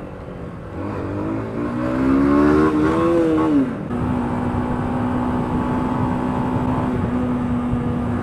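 Yamaha YBR125's single-cylinder four-stroke engine revving up under acceleration, its pitch rising for a couple of seconds. About three and a half seconds in the pitch drops suddenly, and the engine settles into a steady drone at a constant speed.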